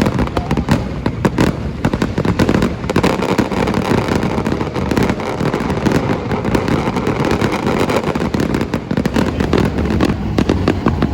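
Aerial fireworks going off in a dense, continuous volley: many bangs and crackles overlapping, with a deep rumble beneath.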